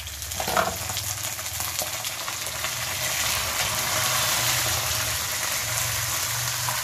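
Raw chicken pieces frying in hot oil with browned onions in a nonstick pan: a loud, steady sizzle that swells in the first second as the chicken settles into the oil, while a spatula turns the pieces.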